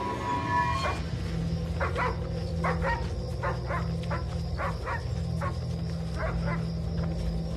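A dog barking over and over in short, irregular barks, about a dozen of them, over a low steady hum.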